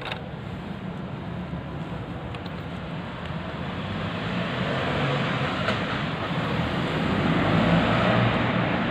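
Road traffic going by: a steady rush of noise that grows louder over several seconds, with a few faint clicks.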